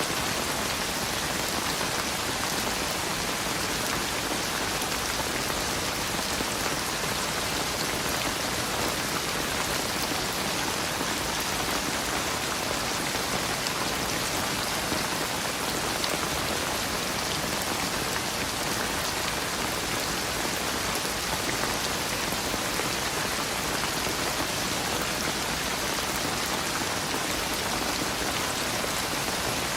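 Steady, heavy rainfall, an even dense patter of raindrops on a surface.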